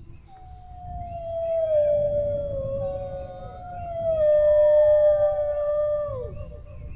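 Dogs howling: two long, overlapping howls, each sliding slowly down in pitch, the second joining about three seconds in and ending in a quick downward drop near the end, over a low background rumble.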